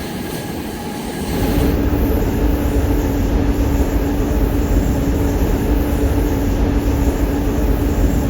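Passenger train running along the line, a steady rumble of wheels and running gear that grows louder about a second and a half in, with a steady hum underneath.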